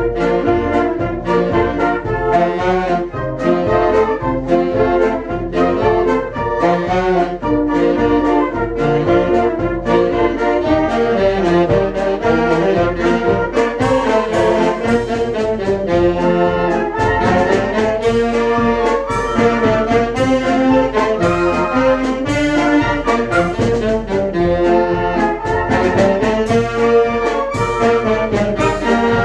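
Children's wind band playing, with brass (trumpets and trombones) carrying the tune over a steady rhythmic accompaniment.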